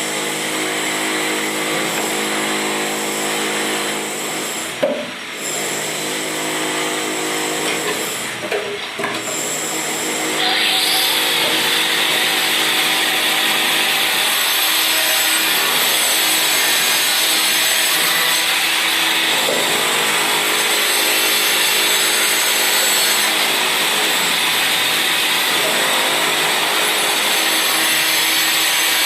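Electric power tool running steadily, with a couple of brief knocks, then growing louder and harsher about ten seconds in as it bites into the work.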